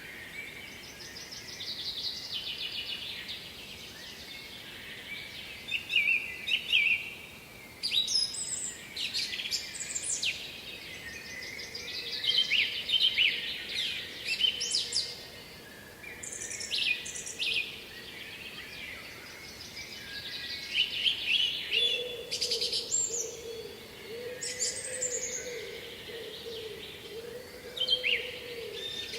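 Songbirds singing, with many short, varied chirping phrases following one another. A low wavering hum joins in about two-thirds of the way through.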